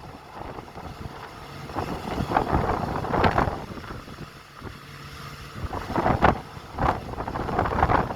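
Strong gusty wind buffeting the microphone, a rough rumbling rush that swells and drops in uneven gusts, easing a little near the middle before picking up again.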